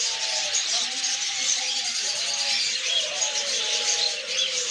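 Many caged pet birds chirping and chattering at once, a dense steady twittering.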